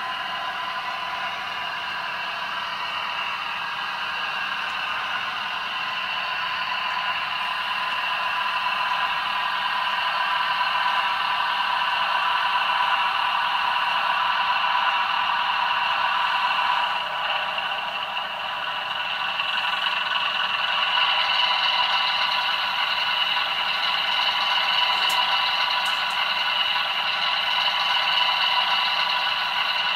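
Sound-fitted (DCC) 00 gauge model diesel train running: the engine sound of its sound decoder played through the locomotive's small speaker, thin with no bass, along with the clatter of wheels on the track. It grows louder over the first dozen seconds, dips briefly about two-thirds of the way through, then holds steady.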